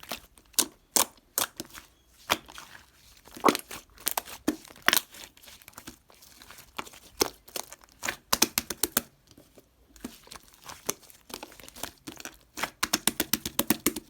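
Crinkly material being handled and torn: irregular sharp crackles, with quick runs of rapid crinkles about eight seconds in and again near the end.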